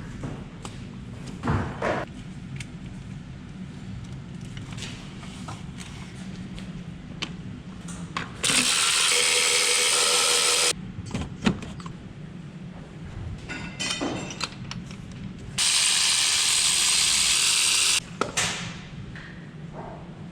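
A power tool runs in two steady bursts of about two seconds each, with scattered clinks of tools and metal parts around them.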